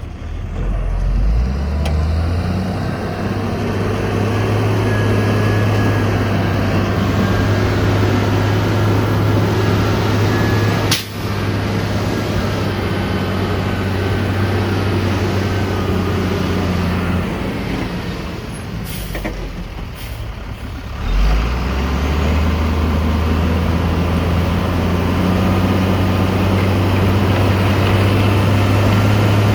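Heavy diesel engine of construction machinery running hard with a deep steady drone. It revs up at the start, eases off for a few seconds past the middle, then revs up again.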